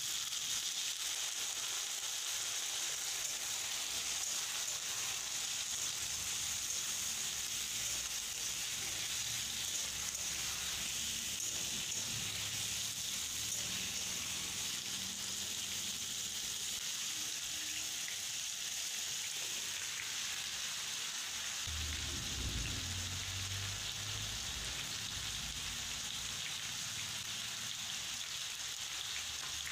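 Potato and pointed gourd pieces frying in hot oil in a kadai: a steady sizzle that starts as the potatoes drop into the oil. A few low knocks come about three-quarters of the way through.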